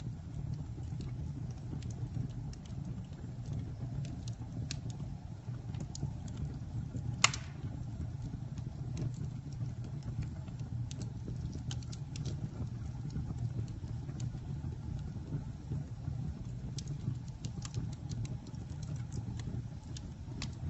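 Wood fire burning, with a steady low rumble and scattered crackles. There is one loud pop about seven seconds in.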